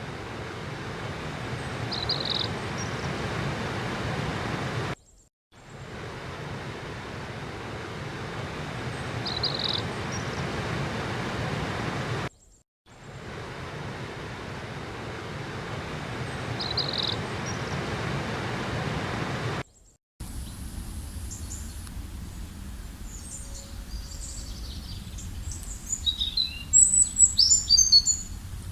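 Steady rushing of running water with a single short bird chirp, the same few seconds looped three times with brief dropouts between. About twenty seconds in the water stops and a quieter scene of several birds chirping takes over, busiest near the end.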